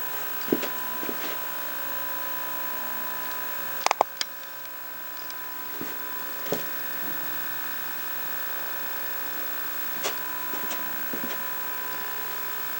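Steady electrical buzz from the 1963 Philco Courier portable TV's speaker, its sound IF out of alignment so the audio barely comes through, with scattered light clicks and taps from the adjustment tool, the sharpest pair about four seconds in.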